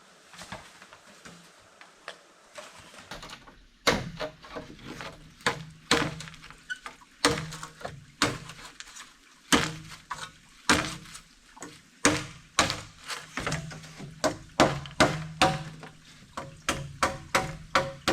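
Faint light clicks, then from about four seconds in a run of sharp wooden knocks with a short hollow ring. They come about once a second at first and quicken to about two a second near the end, like a tool chopping or knocking on wood.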